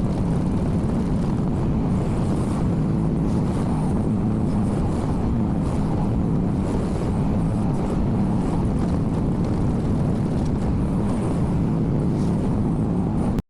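A Chinese 1.5-ton mini excavator's engine running steadily under work while rocks are loaded into a dump hauler. It cuts off suddenly near the end.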